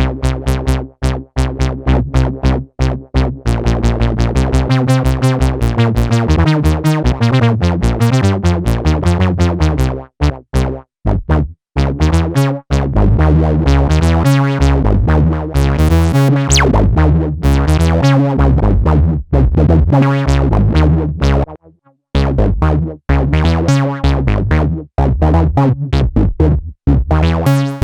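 A Korg monologue monophonic analog synthesizer playing a fast, repeating sequenced bass line, one pitched note after another, taken straight from the synth's output. It stops briefly about 22 seconds in, then starts again.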